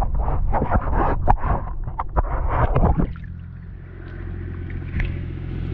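Water splashing and churning as someone is dunked and washed, stopping abruptly about three seconds in, after which an engine idles steadily.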